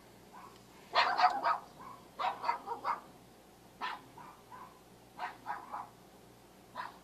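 Dog barking in quick runs of several barks, the loudest run about a second in, then sparser, quieter barks.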